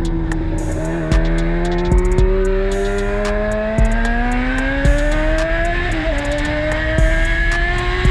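Sport motorcycle engine accelerating hard, its pitch climbing steadily, dipping briefly at a gear change about six seconds in, then climbing again. Music with a steady drum beat plays underneath.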